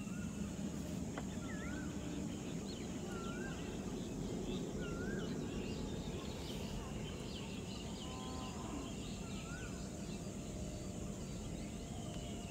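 Birds calling in open farmland: one bird repeats a short up-and-down whistled note every couple of seconds, with scattered small chirps from others, over a steady low outdoor background noise.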